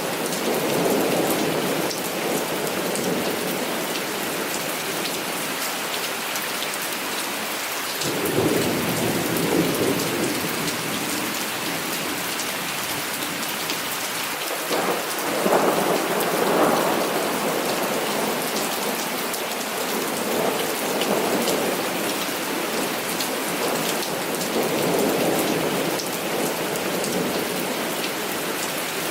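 Heavy rain falling steadily, with rolls of thunder rumbling up and fading about five times, the loudest around the middle.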